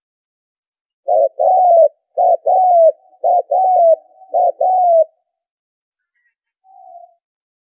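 Spotted dove cooing: four two-part phrases, each a short note followed by a longer one, about one phrase a second, then a faint short note near the end.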